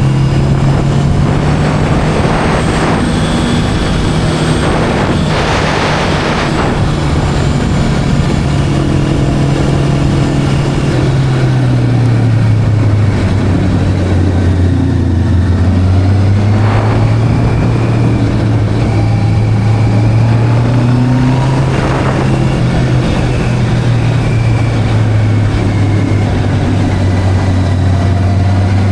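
Sport motorcycle engine running under way at fairly steady revs, its pitch dropping once and climbing back. A few surges of rushing noise pass over it.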